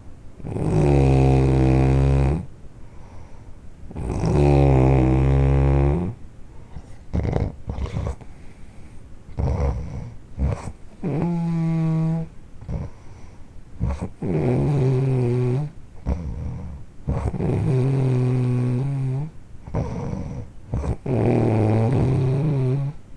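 Loud snoring: six long, buzzing snores of about two seconds each, one every three to four seconds, with crackly, clicking breaths between them.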